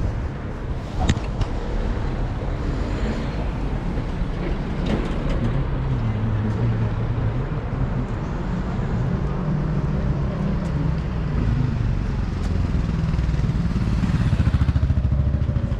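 City street ambience dominated by road traffic: a steady low engine rumble from passing vehicles, with a couple of sharp clicks about a second in and again about five seconds in.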